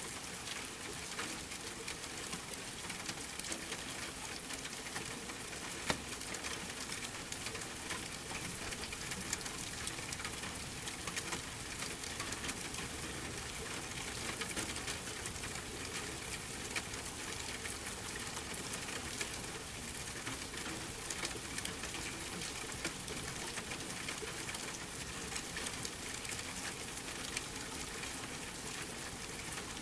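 Steady rain hiss mixed with a wood fire crackling, many small pops scattered through it and one sharper pop about six seconds in.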